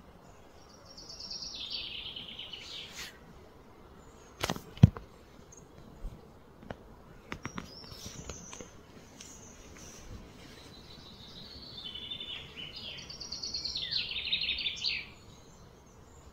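A songbird sings two phrases of fast, descending trilled notes, one about a second in and one near the end. About four and a half seconds in come two sharp knocks half a second apart, the loudest sounds here, then a few fainter clicks.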